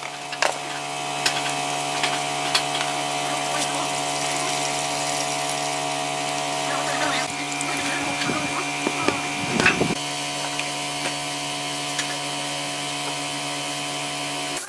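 An electric power tool running steadily with a constant hum. There is some louder rattling and scraping from about eight to ten seconds in.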